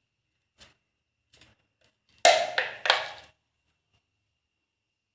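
Hard plastic knocking and clicking as the bottle feeder is worked on to make holes: a few light clicks, then three sharp knocks with a short ring in quick succession about two seconds in.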